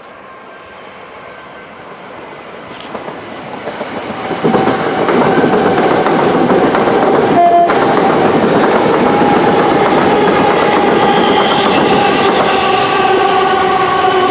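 Train approaching on the main line, growing steadily louder over the first five seconds, then the loud steady rush of the train passing close by with wheel and rail noise and a few steady tones running under it. There is a brief dropout about seven and a half seconds in.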